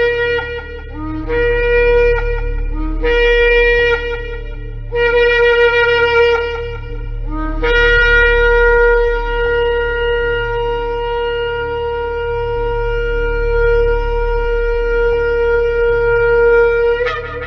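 A shofar (ram's-horn trumpet) is sounded: four short blasts, each stepping up from a lower note to the main note, then one long held blast of about nine seconds that ends with a sharp upward lift. A steady low hum runs underneath.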